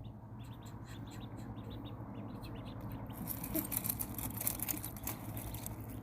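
Ducklings peeping in quick short repeated notes, then splashing and dabbling in shallow water from about three seconds in, over a low steady hum.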